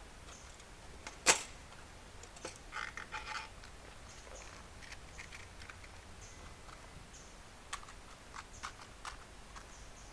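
Scattered sharp clicks and light knocks over a faint background, the loudest a single sharp click about a second in, with a short run of clicks a couple of seconds later and a few more near the end.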